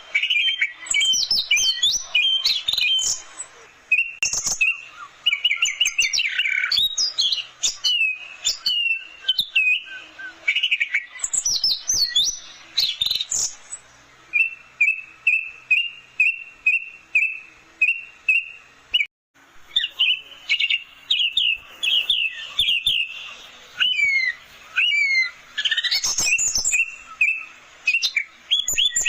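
Orange-headed thrush singing a fast, varied song of rapidly repeated chirps and sweeping whistled notes, broken by a brief gap about nineteen seconds in.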